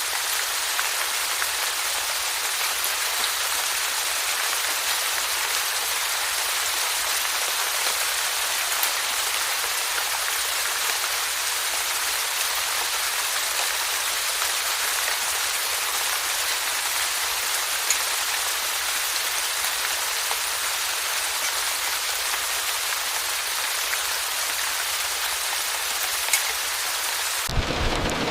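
Steady heavy rainfall: an even hiss of rain on surfaces with scattered individual drop ticks. Near the end it cuts abruptly to a deeper, fuller rumble.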